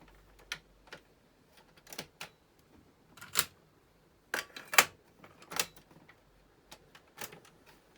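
Irregular sharp mechanical clicks from the controls of a Panasonic RX-FT590 radio cassette boombox being operated, with the radio sound cut out in between.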